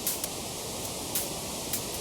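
Wood fire crackling: about five sharp pops over a steady hiss.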